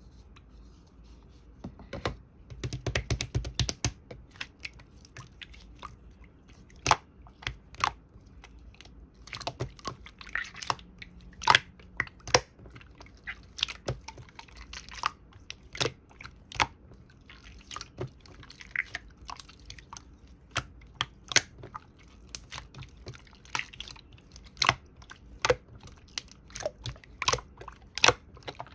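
Slime being squeezed and pressed by hand, giving a run of sharp wet clicks and pops about two seconds in, then single clicks every second or so.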